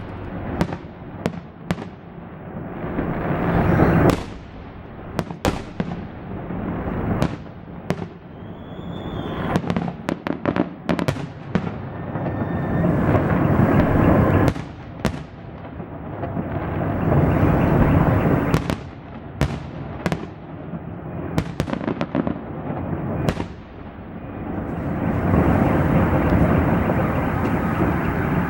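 Fireworks salute: many sharp bangs from bursting shells, some in quick clusters, over a dense rumbling din that swells and fades several times.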